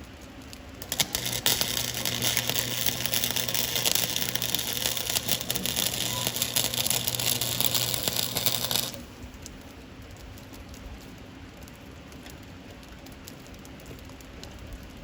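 Arc welding on a steel exhaust pipe: a dense, spitting crackle of the arc with a steady hum under it. It starts about a second in, runs for about eight seconds as one continuous bead and then cuts off suddenly.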